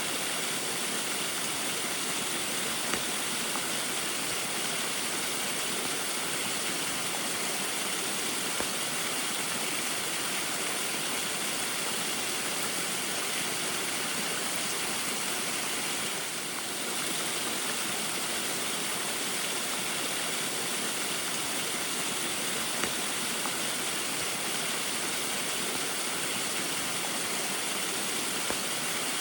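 Small waterfall in the rain: a steady, even rush of falling and splashing water, with a brief dip in level a little over halfway through.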